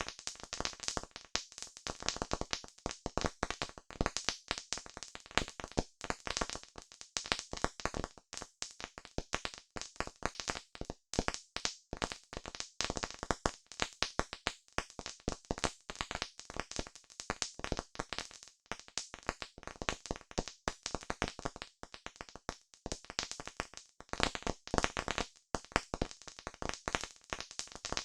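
Campfire crackling: a dense, irregular stream of sharp pops and snaps, many each second, with no lull.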